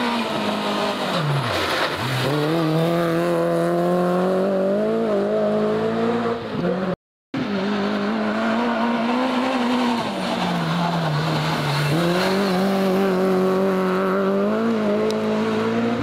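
Rally car engine at high revs. The pitch falls steeply as the driver lifts off, then climbs again in steps through the gears. It cuts out briefly about seven seconds in, and after that another run follows with the same drop and climb.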